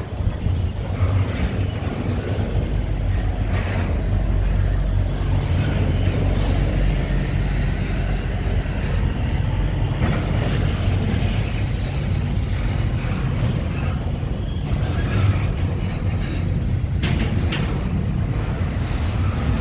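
CN double-stack intermodal freight train rolling past close by: a steady low rumble of steel wheels on the rails, with occasional sharp clanks and knocks from the cars, two close together near the end.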